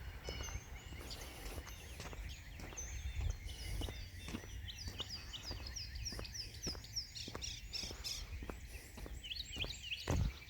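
Songbirds singing and chirping, one giving a quick run of repeated high notes in the middle, over a steady low outdoor rumble. Soft footsteps fall at an even walking pace, with a louder thump near the end.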